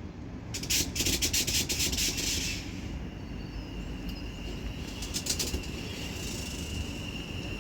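A flurry of rapid wing claps from a pigeon flapping, then a steady high whine that sets in about three seconds in, most likely from the Class 730 electric train standing at the platform.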